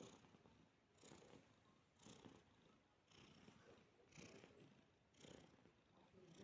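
Domestic cat purring faintly, the purr swelling and fading about once a second.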